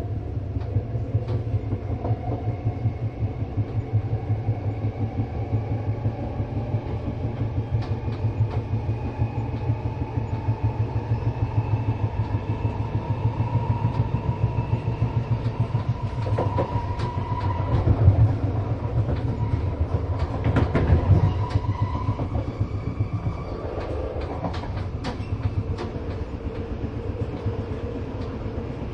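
A moving train running on the rails: a steady low rumble and rapid clatter, with a whine that slowly rises in pitch over most of the stretch. The clatter swells louder twice, about two-thirds of the way through.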